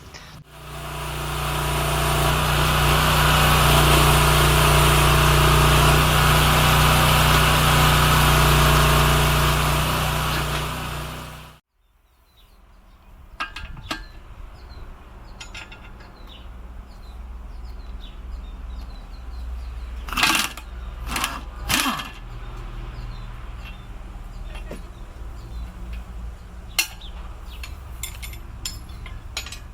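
Small gasoline engine of a towable backhoe running steadily at a constant speed, cutting off abruptly about 11 seconds in. Then a much quieter stretch of low hum with scattered clicks and a few sharp knocks.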